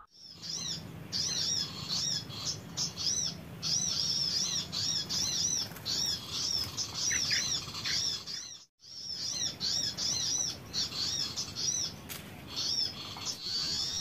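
High-pitched chirping of small birds: quick arched notes repeated almost without pause, with a momentary break a little past the middle.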